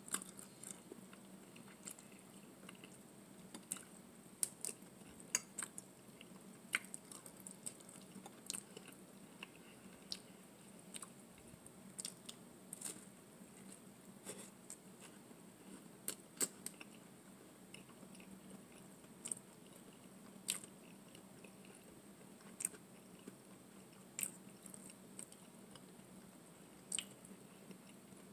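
Close-up eating sounds: chewing and biting on bow-tie pasta in meat sauce and bread, with irregular small clicks over a faint steady low hum.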